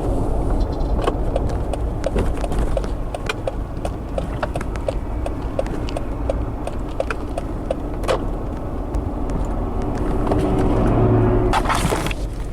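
Car engine and road rumble inside the cabin, with scattered knocks and rattles from a rough road. For several seconds a turn-signal indicator ticks evenly, about three ticks a second, then stops. Near the end the engine note swells briefly, and a loud knock follows.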